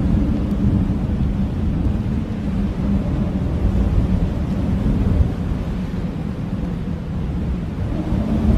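Blizzard wind blowing steadily: a deep, rumbling rush that swells and eases a little, without distinct whistling tones.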